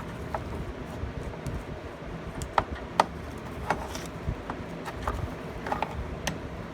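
Hand tools clicking and clinking irregularly, about seven light sharp clicks, over a steady background hiss.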